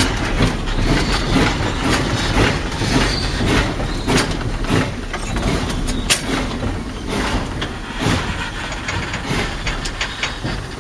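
ET&WNC No. 12, a narrow-gauge steam locomotive, running, heard from inside its cab: a steady mechanical din full of irregular knocks and clanks from the wheels and running gear, with one sharp click about six seconds in.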